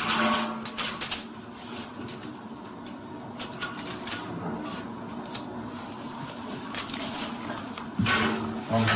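Metal handcuffs clinking and clicking as they are handled and unlocked. A long, drawn-out vocal moan is held at the start and returns near the end.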